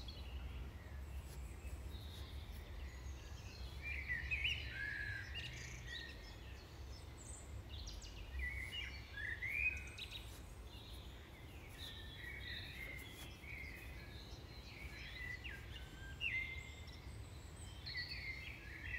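Faint birds chirping in the background, many short quick calls throughout, over a low steady hum.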